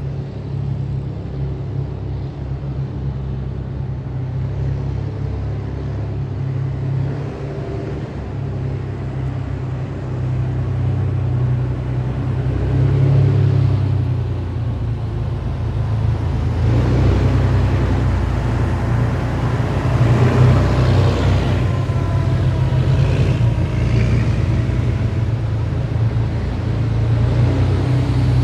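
A column of heavy military vehicles driving past with a steady deep engine drone. From about sixteen seconds in the sound grows louder and a broad rushing noise is added as a vehicle passes close.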